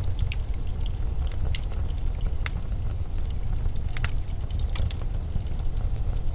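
Blizzard wind as a low, steady rumble, with scattered sharp crackles and ticks over it.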